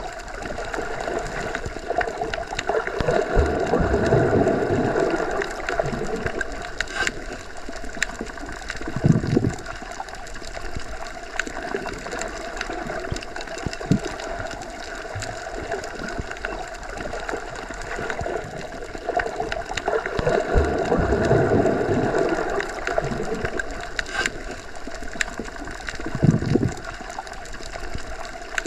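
Underwater ambience, as heard with the ears submerged: a steady muffled rush of water that swells up and dies back twice. A low thump comes about nine seconds in and another near the end, with faint scattered clicks throughout.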